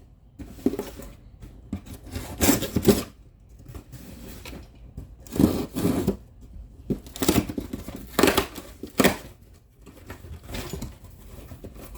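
Packaging being torn open and handled by hand: irregular bursts of tearing and rustling, several in a row with short pauses between.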